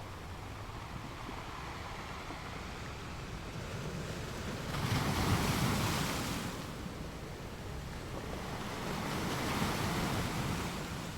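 Ocean surf: waves wash in as a steady rushing noise, with one wave breaking loudest about five seconds in and another, softer swell near the end.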